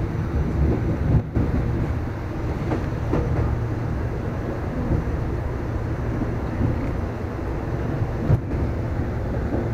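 Electric commuter train heard from inside the carriage, a steady low rumble as it runs. Two brief knocks stand out, about a second in and near the end.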